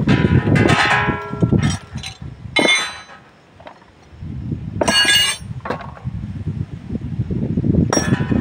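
Metal tools and brake parts clinking and clanking as they are handled, in a handful of separate ringing strikes, the brightest about five seconds in and again near the end. Low handling noise runs under them.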